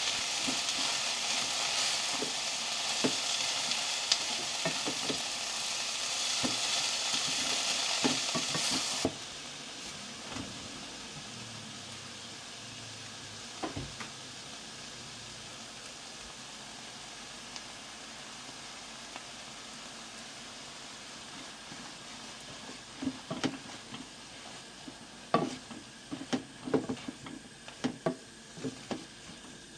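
Food sizzling in a frying pan while a utensil stirs it, clicking and tapping against the pan. The sizzling cuts off abruptly about nine seconds in, leaving a quieter stretch with occasional clicks and a burst of knocks and clatters near the end.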